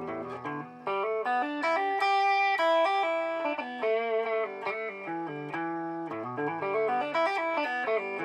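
Electric guitar playing a run of single notes through a BOSS DD-8 digital delay pedal in Warp mode, with the notes overlapping as echoes. A held chord fades at the start, and the note run begins about a second in.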